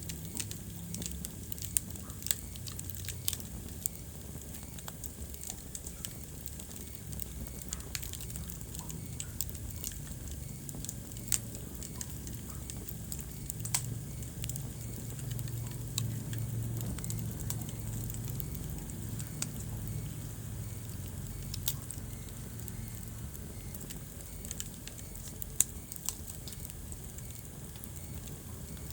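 Wood fire burning in a fireplace: a steady low rumble of flames with scattered sharp crackles and pops, a handful of them noticeably louder.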